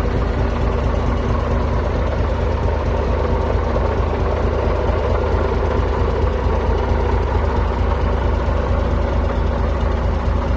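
DAF 95XF 430 truck tractor's six-cylinder diesel engine idling steadily, with no revving.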